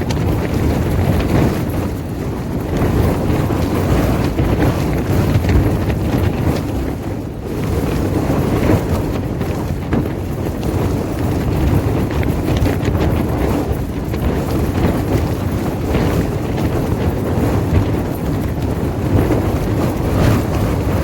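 Strong wind buffeting the microphone: a steady low rumble that swells and eases in gusts.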